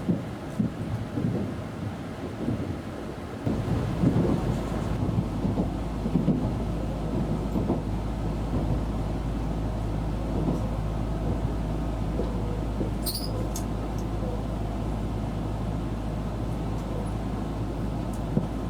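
N700S Shinkansen running, heard inside the passenger car as a low rumble. A steady low hum sets in about three seconds in and holds, with a few irregular knocks before it and a brief faint high chirp about two-thirds of the way through.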